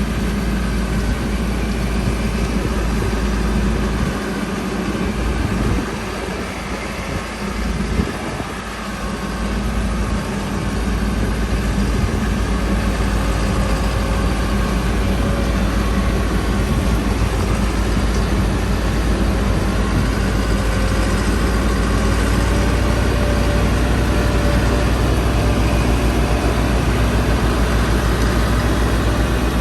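Tractor diesel engine running hard with a steady low drone while hauling a heavily loaded sugarcane trolley. It eases off for a few seconds about four seconds in, then comes back louder and holds steady.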